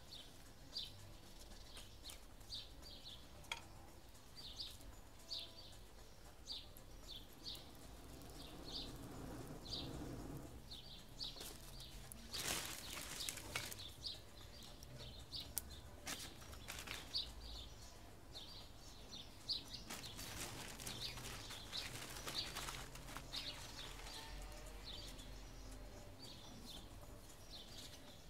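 A small bird chirping over and over, short high chirps about once or twice a second. Two stretches of rustling handling noise break in, about twelve seconds in and again about twenty seconds in.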